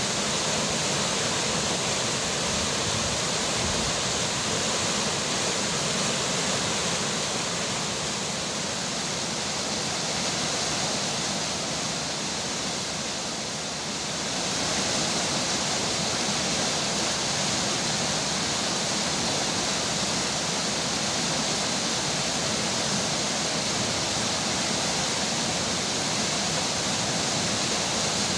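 Steady rushing of a flowing river with falling rain: an even wash of water noise that eases slightly about halfway through.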